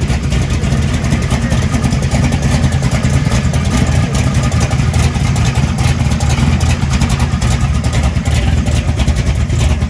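1973 Camaro's 502 big-block V8 running loud and steady, with its exhaust dumps closed.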